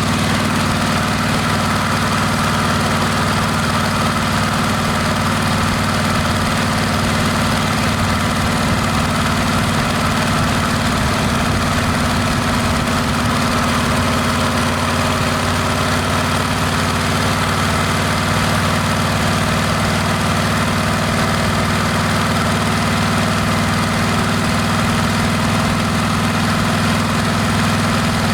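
Harley-Davidson Heritage Classic's Milwaukee-Eight V-twin running at a steady engine speed through a Rinehart exhaust, with no revving.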